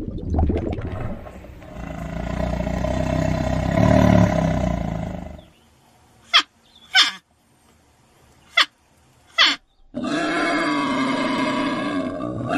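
A large animal's deep, growling roar lasting about five seconds, then four short sharp calls, and a long pitched call near the end.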